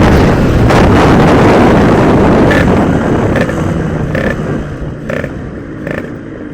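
Yamaha RX-King two-stroke motorcycle running at speed with heavy wind rush, then easing off and quietening from about three seconds in as the engine drops to lower revs. A few short clicks come roughly once a second in the second half.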